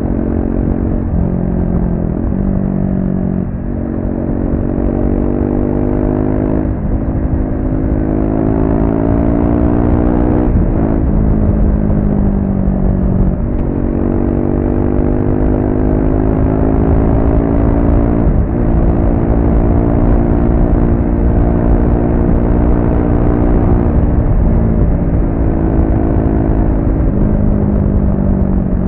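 Triumph Speed 400's single-cylinder engine through its stock exhaust, under way: the engine note climbs steadily in pitch and drops sharply every few seconds at each gear change or throttle lift.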